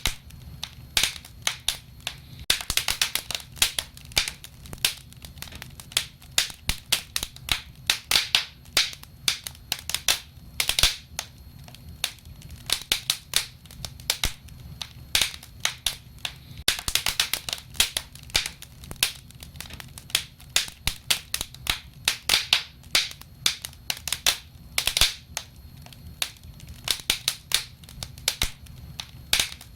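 Wood fire crackling: irregular sharp pops and snaps, often several a second in clusters, over a low steady rumble.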